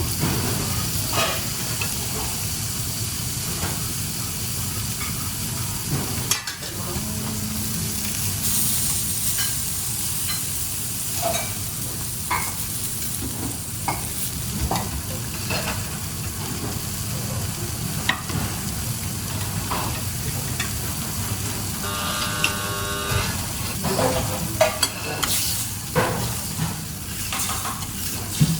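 Food frying and sizzling in a pan, with scattered clicks and scrapes of a cooking utensil over a steady low hum.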